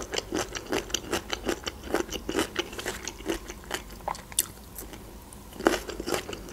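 A person chewing food close to the microphone: a steady run of small wet clicks and crunches from the mouth.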